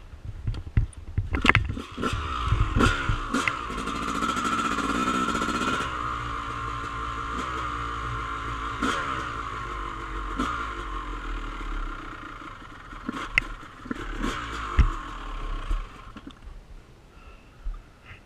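Dirt bike engine running for most of the clip, its pitch shifting up and down, loudest early on and dropping away near the end, with scattered knocks and scrapes over rough ground.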